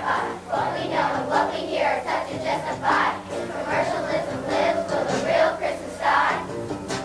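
A group of children singing together in unison, with a low backing underneath.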